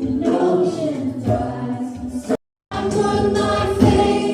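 A group of voices singing a worship song, cut off by a brief total silence a little past halfway before the singing resumes.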